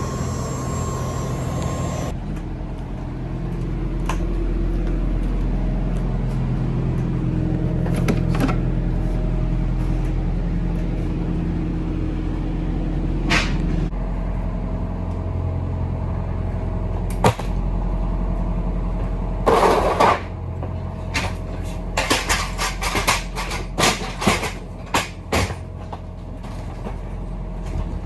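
Heavy truck's engine running steadily. Single sharp knocks come about halfway through, followed by a cluster of clunks and rattles over the last third.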